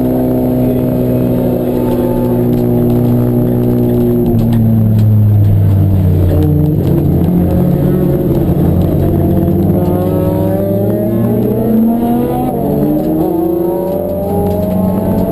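Race car engine running, its pitch sliding down over the first several seconds as the car slows, then climbing again through the second half as it accelerates.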